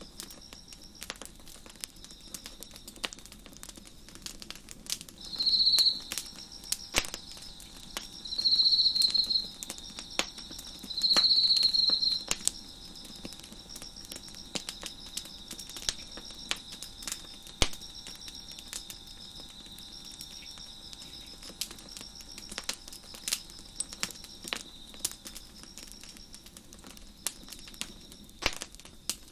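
Wood fire crackling with frequent sharp pops over crickets chirping steadily. A closer cricket trills loudly three times in the first twelve seconds, louder than anything else.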